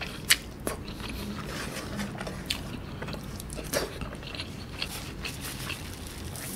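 Close-up chewing of a mouthful of rice and smoked chicken in coconut gravy eaten by hand, with sharp mouth clicks every second or so.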